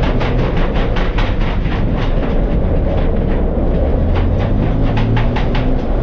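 Car engine running at steady revs, with a fast, regular clicking over it, about four or five clicks a second.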